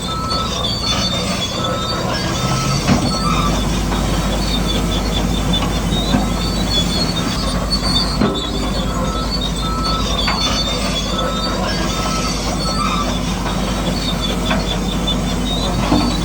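Radio-controlled model bulldozer running steadily: a low electric-motor hum with a high gearbox whine that comes and goes in short stretches, over constant fine clicking from the tracks and drive train.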